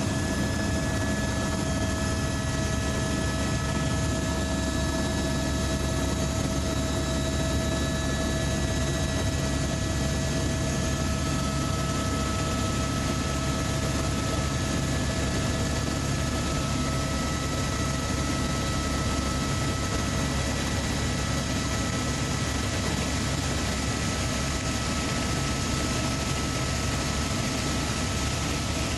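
Helicopter in flight: a steady engine and rotor drone with several constant whining tones over a broad rumble and hiss.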